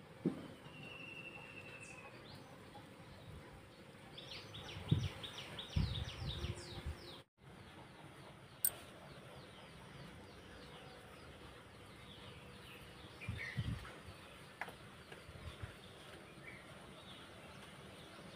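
Birds chirping outdoors, with a quick run of short chirps a few seconds in and scattered calls later, over faint background; a few low thumps.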